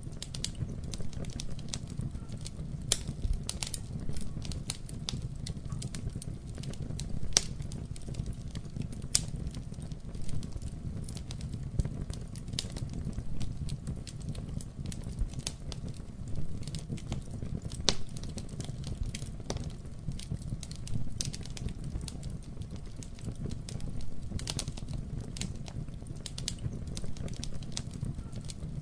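Wood fire burning in a fireplace: a low steady roar of flames with frequent sharp, irregular crackles and pops.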